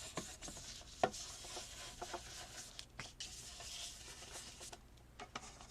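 Paper and card being handled on a craft table: soft rustling and rubbing with scattered light taps, and one sharper click about a second in.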